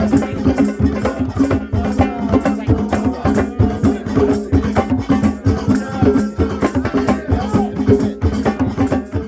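Fast, dense hand drumming with voices singing over it.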